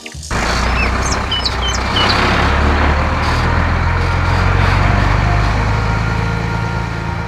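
A cartoon truck engine sound effect: a steady engine rumble that starts suddenly just after the beginning and eases off a little near the end. A few bird chirps come in the first two seconds.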